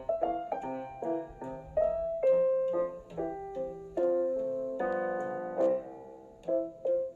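Background piano music: a quick run of struck notes, with a held chord about five seconds in.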